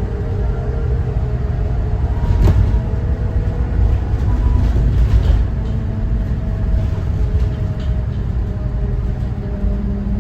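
Thomas Saf-T-Liner C2 school bus driving, its Cummins ISB 6.7 diesel engine running with a steady low drone and road rumble inside the bus. A sharp rattle or knock comes about two and a half seconds in.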